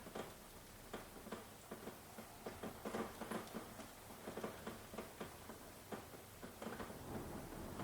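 Rain falling, with irregular heavy drops pattering and ticking close by over a soft steady hiss.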